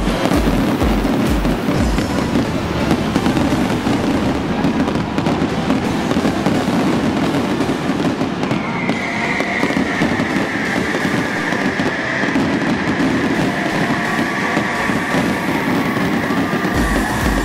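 Stadium fireworks display going off continuously: rapid bangs and crackling bursts, with a steady high hiss coming in about halfway through.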